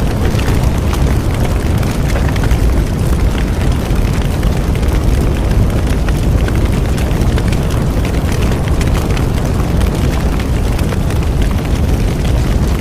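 Bonfire burning: a steady low rumble with frequent small crackles and pops.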